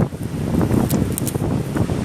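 Strong wind buffeting the microphone: a loud, gusting low rumble, with a few short crackles.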